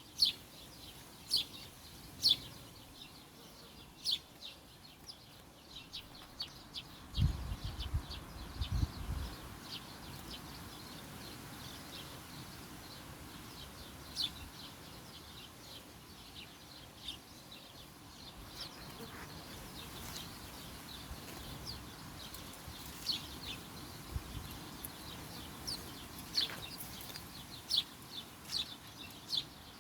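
Small birds chirping: short, high calls repeated in quick runs, busiest near the start and the end. A low rumble comes in about seven to nine seconds in.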